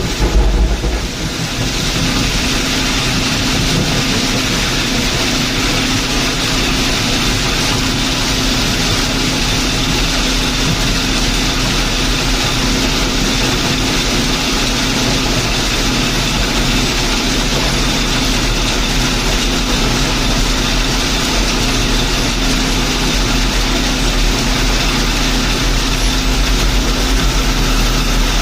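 Diesel engine of a heavy construction machine running steadily with a deep rumble.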